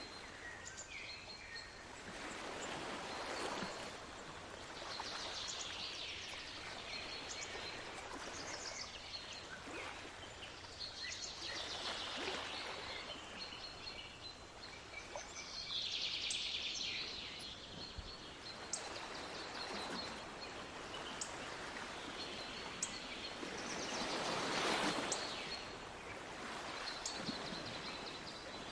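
Sea waves washing in, in slow swells every few seconds, with small birds chirping over them.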